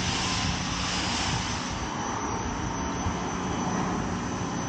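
Steady hiss of a water spray rinsing soap off a car.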